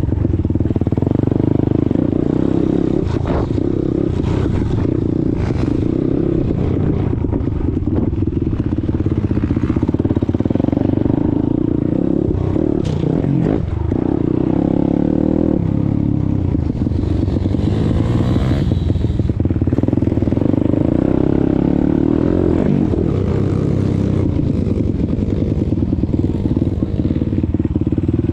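YCF 190 Daytona pit bike's single-cylinder four-stroke engine running under changing throttle as it is ridden, its pitch rising and falling, with a quick drop and climb about 13 seconds in. Light clatter from the bike is mixed in.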